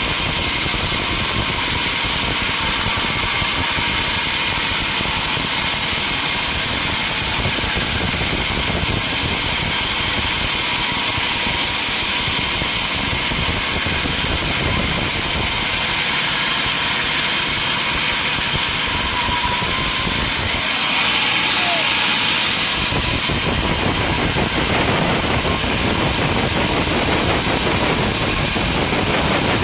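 Sawmill machinery running: a loud, steady mechanical noise, with a brief brighter hiss about two-thirds of the way through, after which it runs a little louder.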